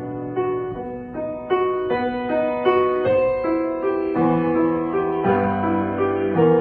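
Solo piano playing, with sustained, overlapping notes; the playing gets louder about a second and a half in.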